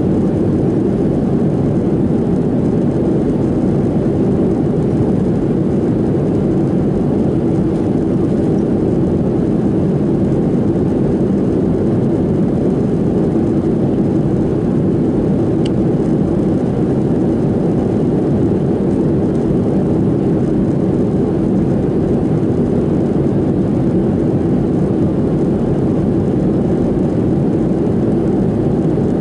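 Steady cabin noise inside a Boeing 737-700 during descent: an even rush of airflow and CFM56-7B engines, strongest in the low and middle range, with no change in level.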